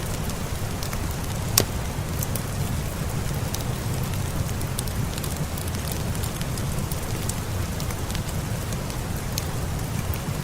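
Steady rain with a low rumble, mixed with a crackling fire: scattered sharp clicks, one louder pop about a second and a half in.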